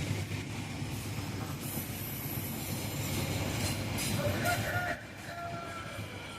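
A train running on the rails, its rumble dropping noticeably about five seconds in.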